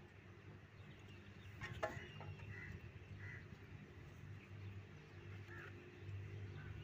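Faint outdoor ambience: a low steady hum with a few short, faint bird calls, and a single sharp click about two seconds in.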